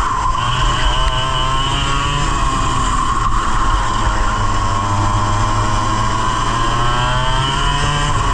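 A 100cc racing kart's engine at race speed. Its revs drop sharply right at the start, hold, then sink slowly through a corner from about three seconds in and climb again toward the end as it accelerates out.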